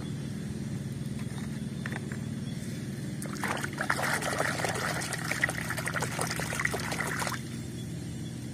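Water splashing and sloshing as a hand swishes in a plastic tub of water, from about three and a half seconds in until about seven seconds. A steady low hum runs underneath.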